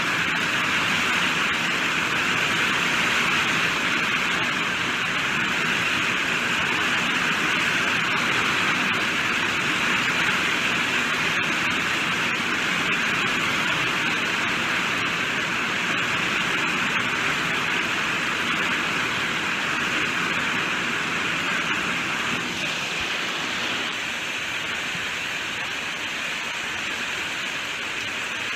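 Steady heavy rain falling, a dense even hiss that eases slightly after about twenty seconds.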